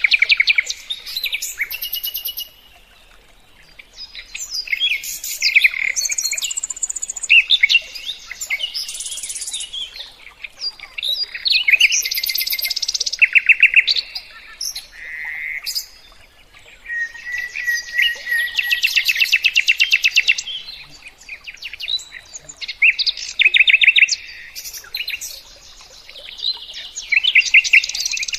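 A songbird singing a long, varied song of rapid trills, chatters and whistled phrases, in bursts separated by short pauses.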